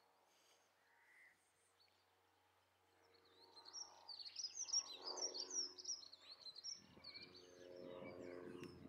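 A small songbird singing a fast, twittering run of high chirps for a few seconds. A faint low hum sits underneath and swells near the end.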